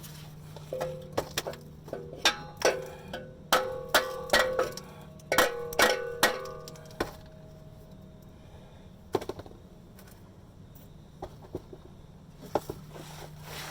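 Metal hammer blows on steel exhaust pipe, each strike ringing briefly: about a dozen quick blows in the first half, then a few scattered taps. The pipe is being driven into its joint.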